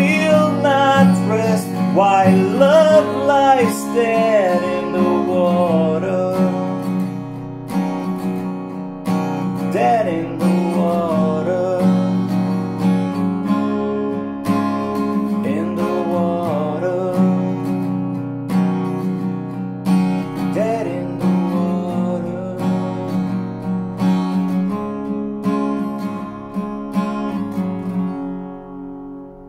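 Acoustic guitar strummed in a steady chord pattern, with a singing voice over it in the first few seconds and in short phrases later. The music fades down near the end.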